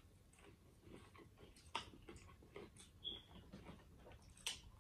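Near silence with faint chewing and scattered small mouth clicks from people eating fried catfish and fries, a few sharper ticks standing out.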